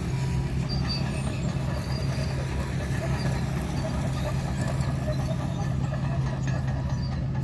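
Komatsu D61 bulldozer's diesel engine running steadily under load, with noise from the tracks and the blade working the road surface.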